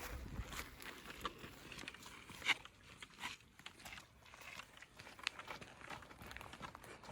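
Footsteps crunching on a dry trail, an uneven series of faint crunches with a sharper one about two and a half seconds in.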